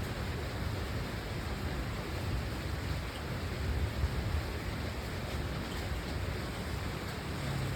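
Steady rain falling, an even hiss with a low rumble underneath. Near the end a low steady hum comes in.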